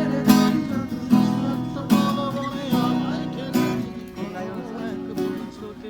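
Acoustic guitar strummed in a steady rhythm, about one strong stroke a second, with people's voices over it.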